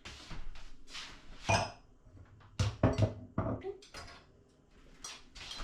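Glassware and kitchen containers knocking and clinking as they are handled and set down on a counter: several separate knocks, one of them about a second and a half in with a brief glassy ring.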